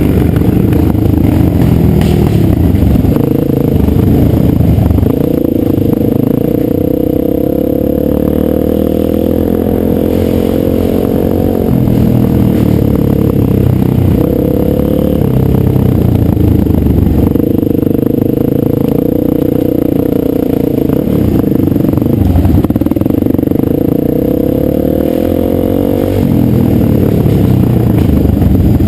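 Dirt bike engine running loud under way, its pitch holding steady for a few seconds at a time and then rising or falling as the throttle and gears change.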